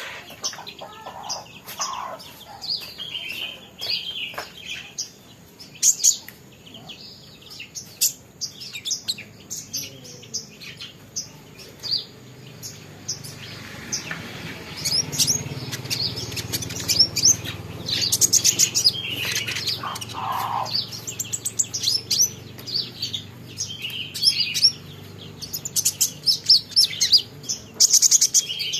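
Young kolibri ninja sunbird chirping, many short high chirps in quick runs throughout. A low steady hum sounds underneath through the middle.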